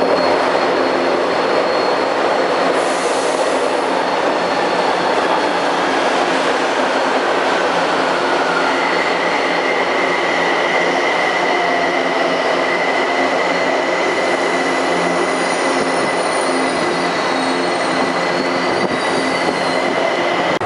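São Paulo metro train running steadily, a loud dense rumble with a steady high whine joining about nine seconds in and faint high wheel squeals near the end.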